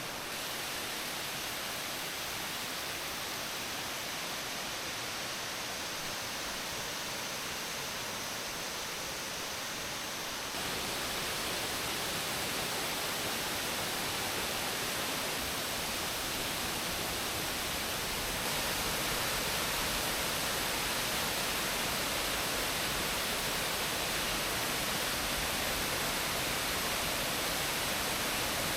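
Waterfall rushing as a steady, even roar of falling water. It gets louder in two abrupt steps, about a third and about two-thirds of the way through.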